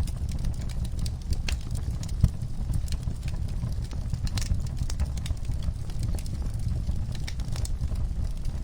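Wood fire crackling in a fireplace: irregular pops and snaps over a steady low rumble of the burning fire, with one louder pop a little over two seconds in.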